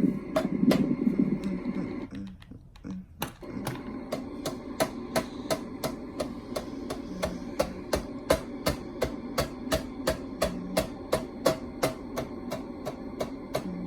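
Ceiling fan running with a steady hum; after a brief dip about two seconds in, a regular sharp click sets in, about three a second.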